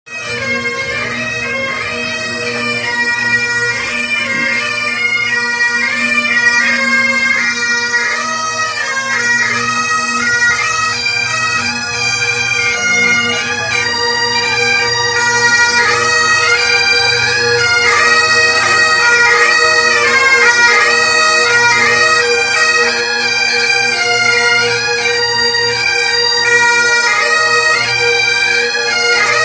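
Great Highland bagpipes played by a group of pipers: steady drones sounding under the chanter's melody.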